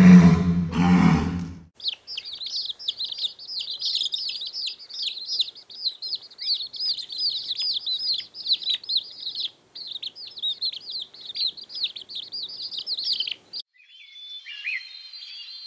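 A walrus's loud, low bellow cuts off about two seconds in. Then a large crowd of baby chicks peeps in a dense, continuous high chatter, which stops near the end and gives way to fainter, sparser chirps.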